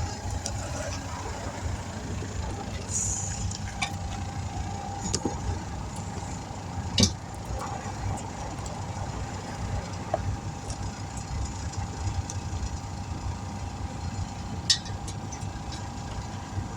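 A steady low motor hum with a faint constant whine, with a few short clicks and knocks, loudest about seven seconds in.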